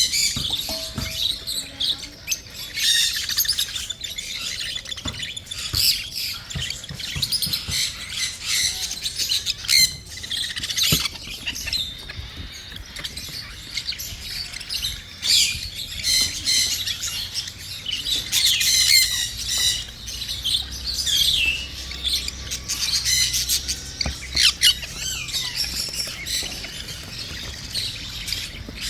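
Cockatiel chicks squawking with near-continuous begging calls while being hand-fed.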